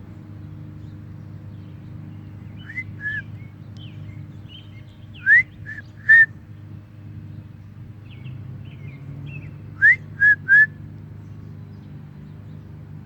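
A small bird chirping: short whistled notes, the loudest coming in two quick runs of three rising chirps about four seconds apart. A steady low hum runs underneath.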